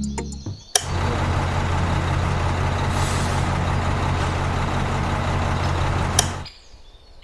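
Heavy vehicle engine running steadily, like a truck or construction machine. It starts with a click about a second in and cuts off with another click near the end.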